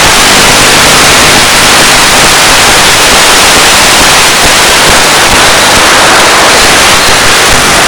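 Loud, steady static hiss from the audio channel of a 1.3 GHz analog FPV video receiver.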